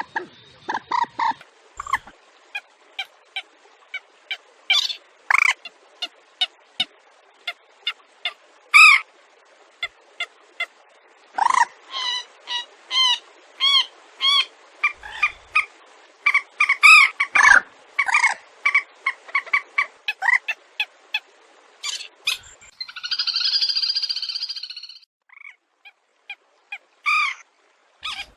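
Rails, swamphen and crake, calling: many short, sharp calls in irregular runs, with one longer buzzy, wavering call near the end.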